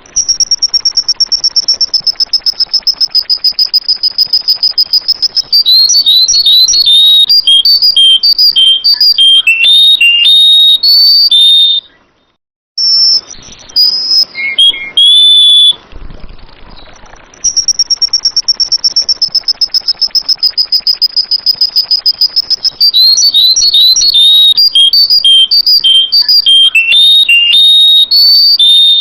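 Sooty-headed bulbul song, loud and close: a high, rapidly pulsing trill held at one pitch for several seconds, then a quick run of varied whistled notes. After a short break about halfway through, the same sequence repeats.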